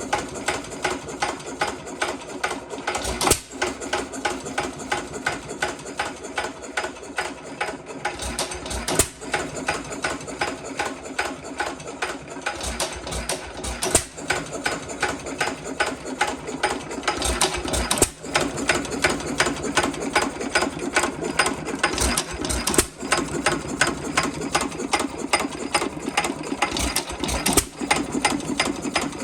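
1 1/2 hp Sandwich hit-and-miss engine with a Wizard magneto, running with a fast, steady mechanical clatter. A louder stroke stands out every few seconds.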